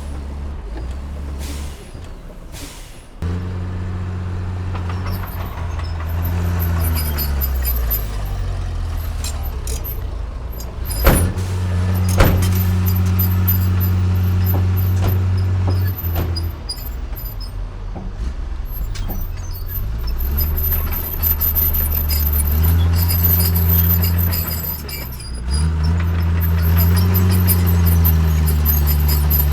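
Heavy diesel engine of earthmoving equipment working under load, its engine speed repeatedly rising and falling, with two sharp knocks about eleven and twelve seconds in.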